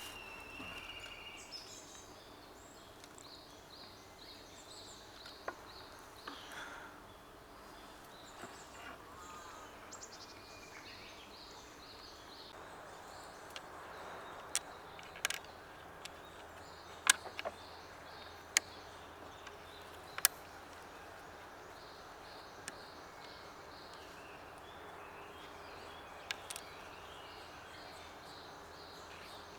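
Outdoor forest ambience with a bird calling in short repeated notes, once near the start and again later. Scattered sharp clicks fall mostly in the middle stretch, the loudest about halfway through.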